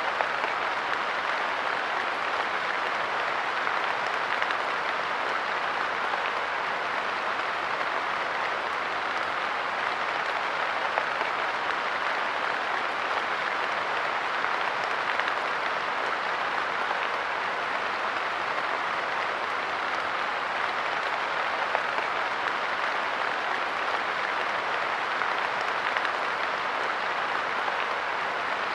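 Steady light rain pattering on a wooden park bench, a continuous patter of many small drops with no let-up.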